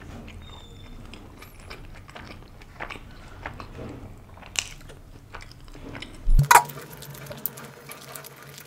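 Close-miked chewing: a person biting and chewing food, with many small wet clicks from the mouth. A couple of louder, sharp sounds come about six seconds in.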